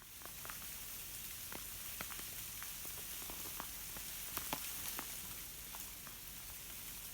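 Ice-coated tree branches cracking as they sway in a light breeze: a steady high hiss with many scattered sharp ticks and cracks of ice breaking on the branches.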